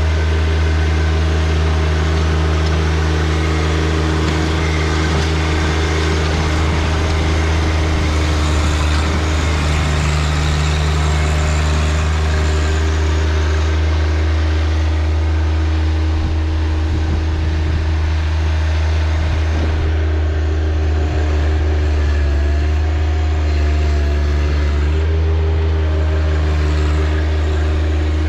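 John Deere 1025R compact tractor's three-cylinder diesel engine running steadily while digging with the 260B backhoe. Its pitch wavers briefly about three-quarters of the way through.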